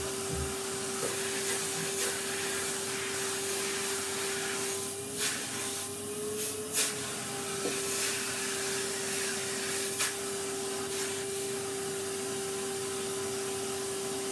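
Vacuum cleaner running steadily with a constant whine over a rushing hiss, its pitch rising slightly for a moment midway. A few sharp knocks, about three, sound over it.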